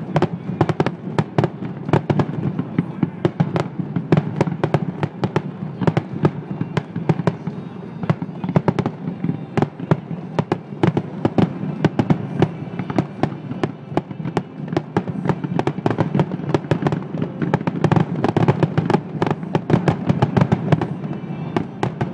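Aerial fireworks display: shells bursting in a dense, unbroken run of sharp bangs and crackles, several a second.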